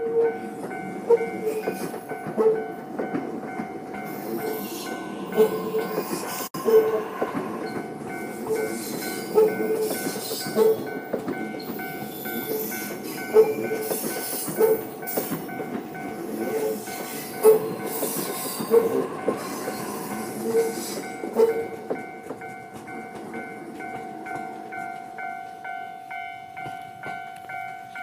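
Narita Express train running past over a level crossing, its wheels clacking over the rail joints again and again with a rushing hiss. The train is gone about 22 seconds in. The level crossing warning bell rings steadily throughout and is left alone, pulsing evenly, at the end.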